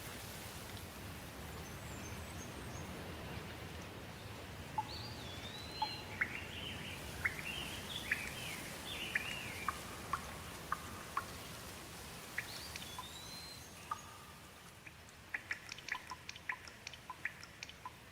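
Steady rain falling, with small birds calling in short chirps and rising and falling whistles through the middle. The rain eases near the end, where a quick run of short sharp ticks like drips comes in.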